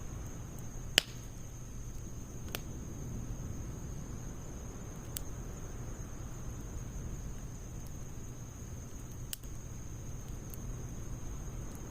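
Wood fire burning in a Snow Peak steel fire pit, a low steady rush with a few sharp pops and snaps from the burning firewood, the loudest about a second in.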